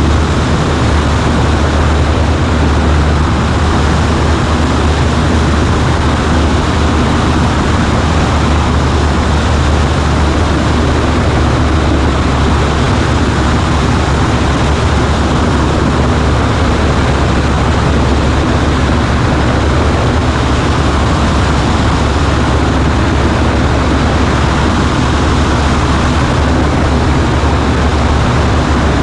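Cessna 140A's Continental C-90 engine and propeller running steadily in flight, a loud, even drone with a strong low hum.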